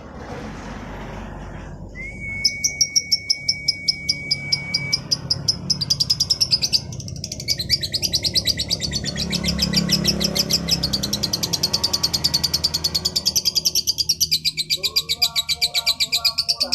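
Female lovebird singing a long, fast chattering trill of high chirps that runs on without a break from about five seconds in. Before it, a steady high whistle-like tone lasts about three seconds, over a low background rumble.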